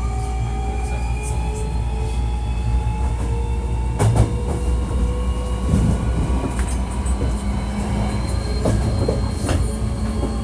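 Running sound of a Hankyu 1300 series electric train heard from inside the car: a steady low rumble with motor whine tones that slide gently down in pitch through the first half as the train slows, then steadier tones. Wheels click over rail joints a few times. This car is known for its unusual acceleration and braking sound.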